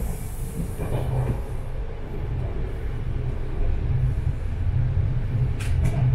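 Steady low rumble of a sleeper train carriage running along the track, heard from inside the coach, with a few brief sharp sounds near the end.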